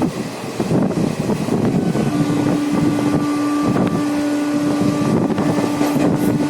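Express train running at speed, a steady rumble with rattles, heard from inside the coach. About two seconds in, a steady held tone comes in over it and lasts to the end.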